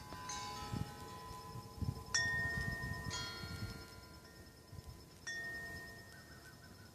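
Homemade wind chimes made from worn-out tools and circular saw blades, knocked by the wind: about four separate metallic strikes, each ringing on in several tones and slowly fading.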